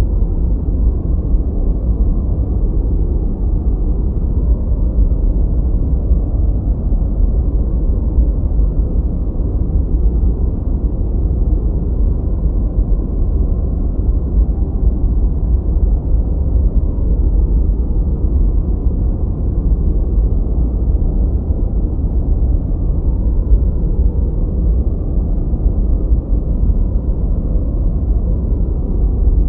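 Continuous generated noise for masking background sound. It is steady and unchanging, deep and low-pitched with no high hiss, so it sounds closer to brown noise than to bright white noise.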